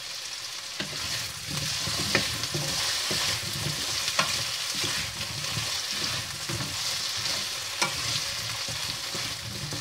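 Carrot and potato chunks sizzling as they sear in a sauté pan, stirred with a wooden spatula that scrapes and knocks against the pan a few times.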